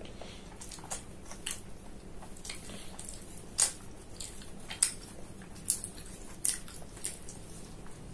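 A person chewing spicy mutton liver with the mouth closed: scattered wet mouth clicks and smacks, about ten in all, the loudest a few seconds in.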